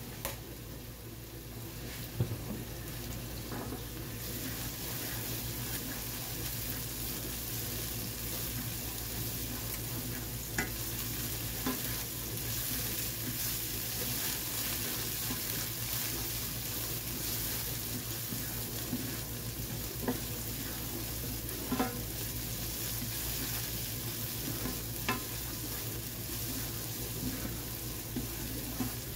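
Diced bell pepper, garlic and dried minced onion sizzling in olive oil in a nonstick skillet while being stirred with a spatula. There is a steady frying hiss, with a few light clicks of the spatula against the pan.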